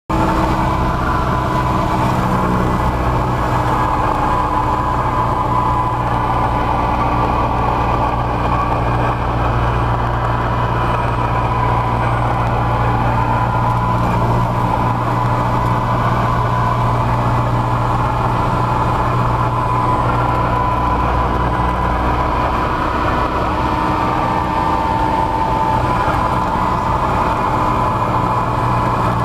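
A Cessna 172's piston engine and propeller running with a steady drone, an unchanging pitch held throughout.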